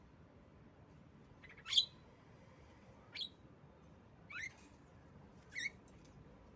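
Female Javan myna (jalak kebo) giving four short, sharp calls about a second and a half apart, the first the loudest.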